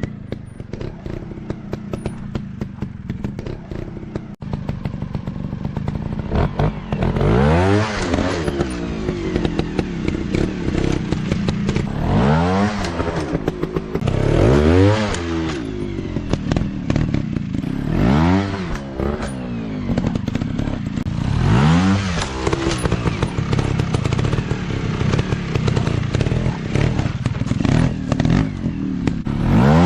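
Off-road dirt bike engines running over a steady low idle, with about six short throttle blips whose pitch rises and falls, and a scatter of clattering knocks.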